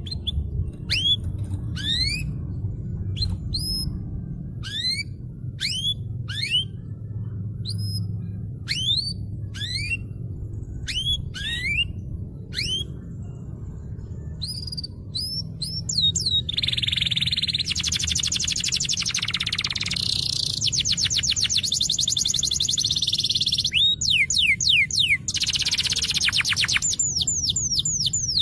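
Domestic canary singing: a run of quick rising whistled notes, then from about halfway fast rolling trills, and rising notes again near the end. A low rumble lies under the song.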